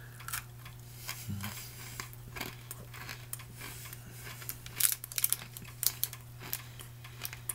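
A person chewing a small Atkinson's crunchy peanut butter bar, a crisp candy shell around peanut butter: scattered small crunches and clicks, busiest a little past the middle, over a steady low hum.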